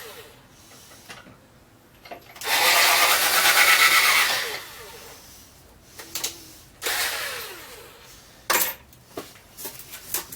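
Power drill boring pilot holes into timber: a burst of about two seconds starting a couple of seconds in, then a shorter burst near the middle whose pitch falls as the motor spins down. A few sharp clicks follow near the end.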